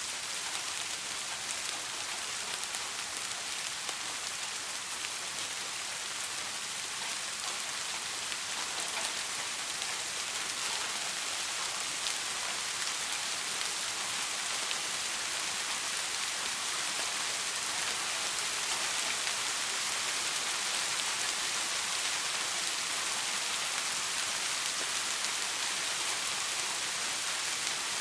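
Steady soft rain falling: an even hiss with a fine patter of drops.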